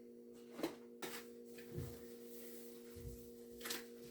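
A few faint clicks and dull knocks, the loudest a sharp click about two-thirds of a second in, over a steady low hum.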